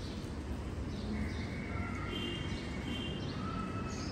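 Birds chirping and whistling, with short high chirps and a few held whistled notes, over a steady low rumble.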